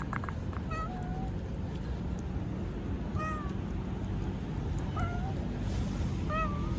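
Stray cat meowing, four short meows spaced roughly a second and a half apart, over a steady low background rumble.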